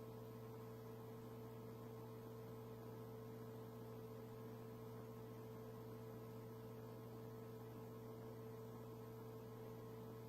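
Faint, steady electrical hum with a light hiss from an idle radio audio feed, with no transmission on the channel.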